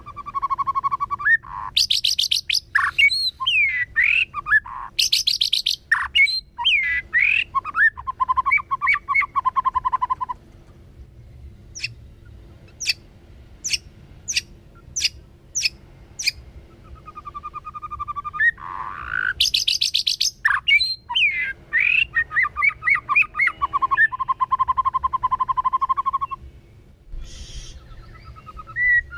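White-rumped shama singing in two long bouts of varied whistled phrases: rising and falling notes, fast trills and held notes, with a shorter phrase near the end. Between the bouts comes a run of about eight sharp ticks, roughly half a second apart.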